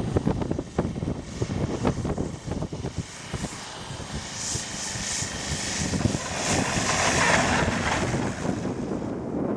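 Radio-controlled model airplane's motor and propeller in flight, growing louder to a peak about seven seconds in, then easing off. Wind buffets the microphone during the first few seconds.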